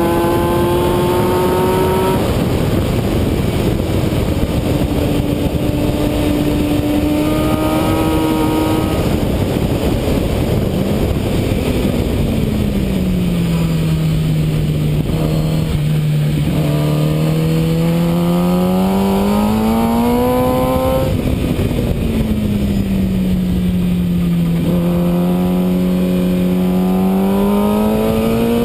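Motorcycle engine heard from onboard on a race track, its revs climbing and dropping several times: rising hard under acceleration, falling as it slows for corners, then pulling up again near the end. A steady rush of wind noise runs under it.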